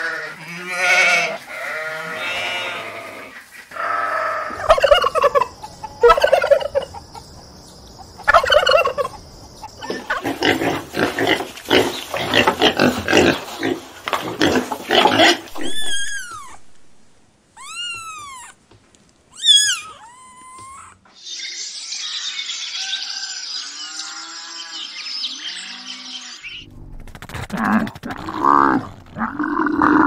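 A string of different animal calls in turn: sheep bleating, a dense run of fowl calls, then a cat meowing several times in rising-and-falling cries, and a camel's deep calls near the end.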